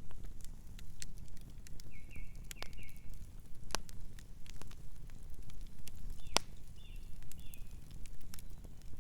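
Campfire burning with a steady low rumble and irregular wood crackles, including two sharper pops about four and six and a half seconds in. Faint short high-pitched chirps come twice.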